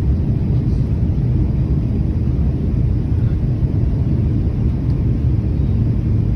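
Passenger jet cabin noise heard from inside the cabin: a steady low rumble with no distinct events.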